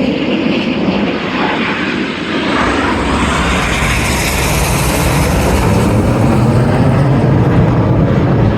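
Jet noise from BAE Hawk T1 jets climbing away after take-off. It is a loud, dense roar, and a deep rumble swells in about two and a half seconds in and keeps building toward the end.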